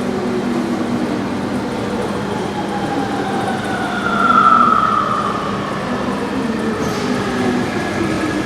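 VAL automatic metro train running on its rubber tyres, its electric motors whining in several tones that fall in pitch, loudest about halfway through, over a steady low hum.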